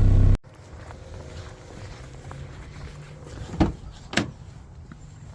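Car engine drone heard from inside the cabin, cut off abruptly about half a second in. After that comes a quiet low hum with two sharp knocks about half a second apart, a little over three seconds in.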